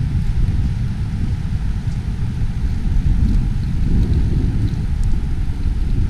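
Wind in a snowstorm buffeting the microphone: a loud, uneven low rumble with a faint hiss above it.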